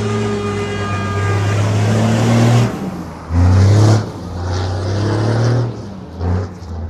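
KAMAZ truck's diesel engine revving hard while drifting: the revs are held, drop away, then surge in a short loud burst about three and a half seconds in and again briefly near the end.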